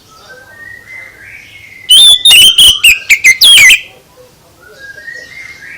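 Songbird singing: soft rising whistles, then about two seconds of very loud, sharp notes with sweeping whistles, and soft whistles again near the end.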